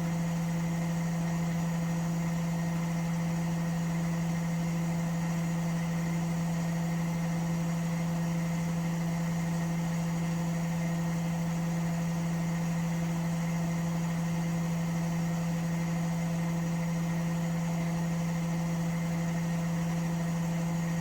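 Washing machine running with a steady motor hum and a fainter regular pulsing above it.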